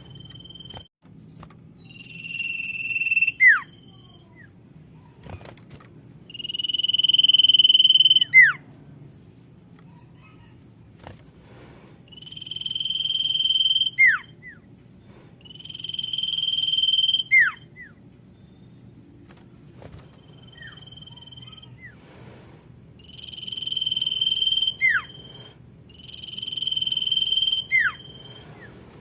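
Common iora (sirtu) calling, the female's call used to lure males: a long whistle that swells in loudness and ends in a quick falling note. It comes about seven times, roughly every three to four seconds, over a faint low hum.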